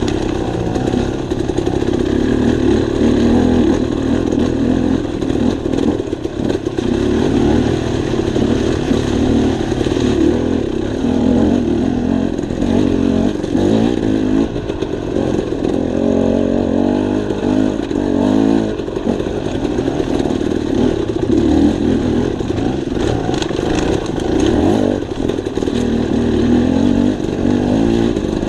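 Dirt bike engine running as it is ridden along a trail, its pitch rising and falling with the throttle.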